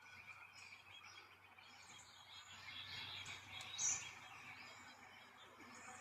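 Small birds chirping and calling faintly, with one louder, sharper high call about four seconds in.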